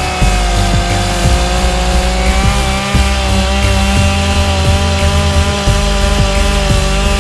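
Chainsaw running at high revs and cutting into a wood log, its pitch holding nearly steady with slight drifts, mixed with background music that has a steady beat.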